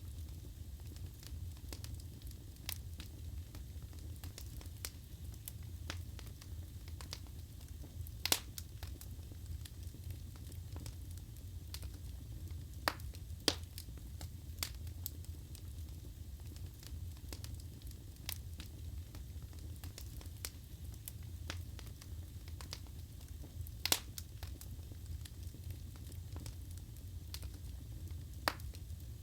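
Wood fire burning in a fireplace: a steady low rumble of flames with scattered sharp crackles and pops. Louder pops come at about 8, 13 and 24 seconds.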